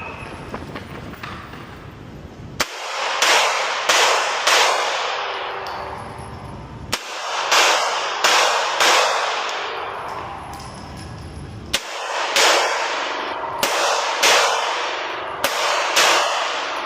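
Handgun shots fired in quick strings of three to five, with pauses of a couple of seconds between strings, each shot followed by a long echo.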